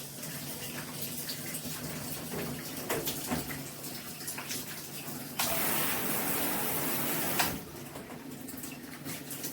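Handheld shower head spraying water in a steady hiss, growing louder and brighter for about two seconds past the middle before settling back.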